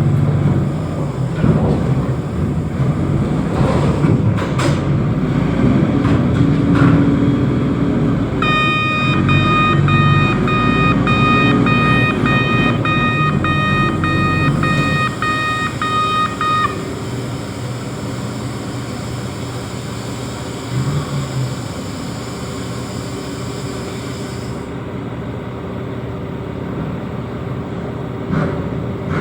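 A reach stacker's diesel engine running, heavy and loud, easing down to a quieter run about fifteen seconds in. A warning beeper sounds in steady regular beeps for about eight seconds in the middle.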